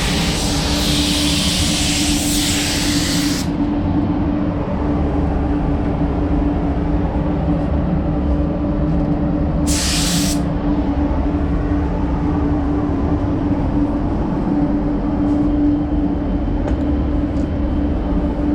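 Compressed-air hiss from a paint spray gun, running for about three and a half seconds and cutting off, then one short blast about ten seconds in. Underneath, a steady low machine hum with one constant tone.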